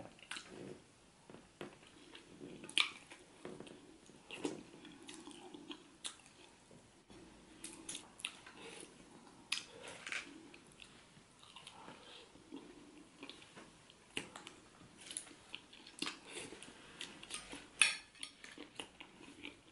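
A person chewing and biting into yam and catfish head in pepper soup, with irregular wet mouth sounds and scattered sharp clicks of a fork and spoon against the plate.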